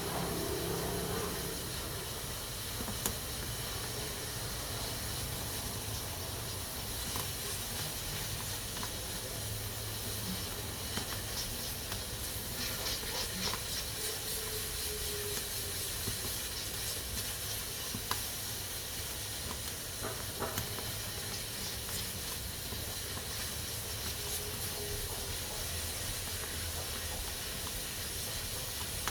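Pressure cooker hissing steadily as steam escapes through its valve, with a few faint ticks scattered through.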